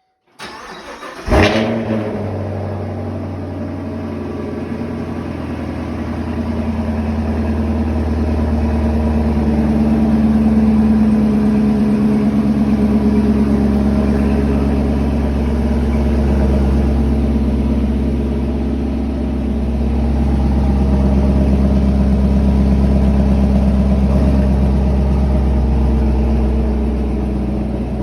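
2019 Chevrolet Camaro SS 1LE's 6.2-litre V8 cold-starting: a brief crank, a loud flare as it catches about a second in, then a steady, fast cold idle.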